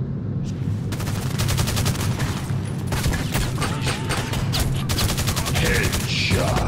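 Rapid machine-gun fire sound effects from a mobile game playing on a phone, in several long bursts, over the steady low hum of the car's engine.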